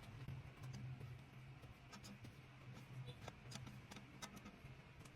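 Faint, scattered clicks and taps of a kitchen utensil against a pot as boiled amaranth greens are lifted out, over a low steady hum.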